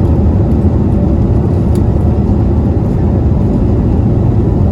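Steady, loud rumble of an Airbus A321neo's engines and airflow during takeoff, heard from inside the passenger cabin.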